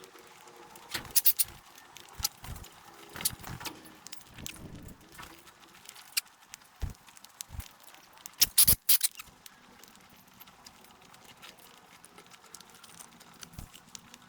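Birds tapping and knocking irregularly on a feeding surface with beaks and feet, with a few louder thuds about a second in and near the middle.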